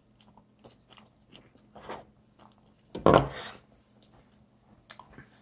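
A person chewing and crunching frozen pizza close to the microphone, with small wet mouth clicks. One louder, short sound about three seconds in.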